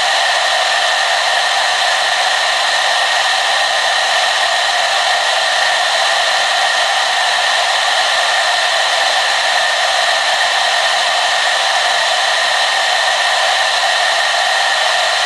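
Hair dryer running steadily: a constant airy whoosh with a faint steady whine in it, unchanging throughout.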